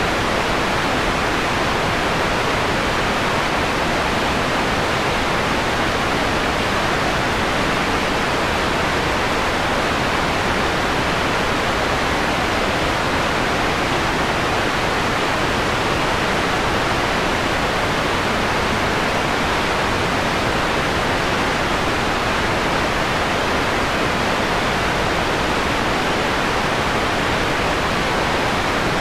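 Steady synthetic white noise, filtered so that its highs are rolled off, giving an even hiss that is softest in the top treble.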